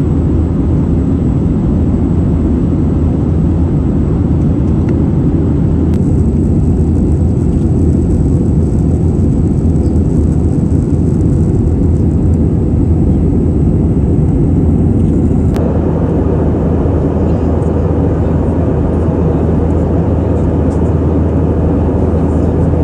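Steady, loud rumble of an Airbus A320 heard from inside the passenger cabin: engine and airflow noise with a deep low hum. There is a faint tick about six seconds in and again about fifteen seconds in.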